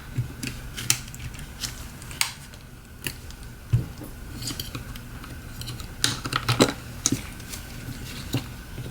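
Small plastic and metal clicks and taps as a snap-fit plastic cover is worked loose from the bottom of a Samsung Galaxy S7 edge's opened back. The clicks are scattered, with a quick run of them about six seconds in.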